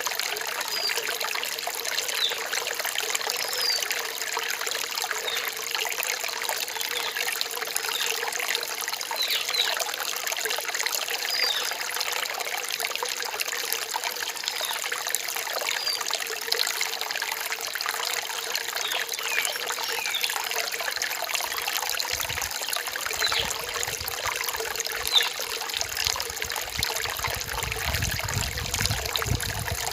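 Stream water trickling and splashing steadily. A low rumble joins in over the last few seconds.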